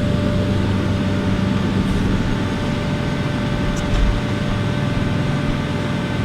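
Steady droning hum of running machinery with a faint, constant whine, and a short low thump about four seconds in.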